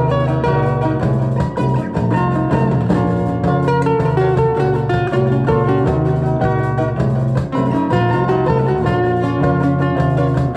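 Instrumental music: guitar playing a busy picked melody over sustained low notes.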